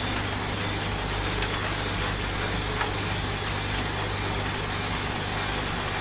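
Washing machine running with a steady low hum, mixed with the even hiss of rain.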